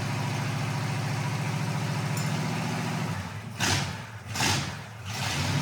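Freshly swapped-in flathead V8 idling steadily, its firing pulses even and fast. About three and a half and four and a half seconds in, two brief rushes of noise cover it.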